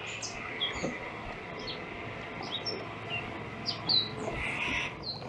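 Small birds chirping: scattered short, high chirps over a steady background hiss.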